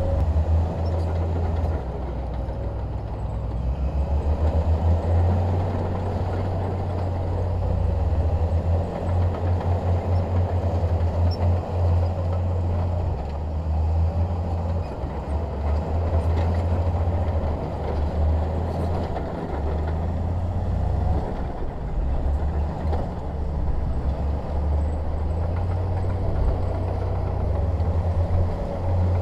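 Bulldozer's diesel engine working under load: a continuous low rumble whose level keeps rising and falling.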